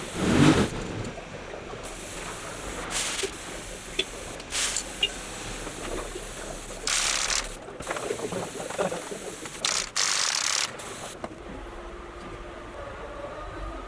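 Several short bursts of hissing spray, each under a second, with small clicks and handling rattles in between.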